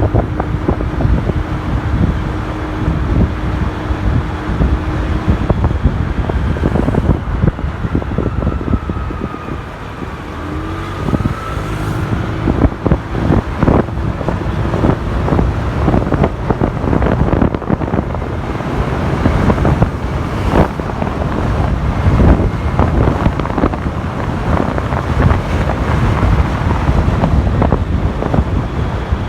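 Motorcycle riding in city traffic, heard from the bike's own microphone: heavy wind buffeting over engine and road noise. Around ten seconds in the level dips briefly and the engine pitch falls, then climbs again.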